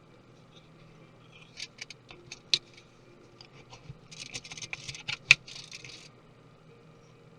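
Small hard clicks and taps of hand tools and parts during laptop disassembly: a few scattered clicks, then about two seconds of busy scraping with one sharp, loud click near its end.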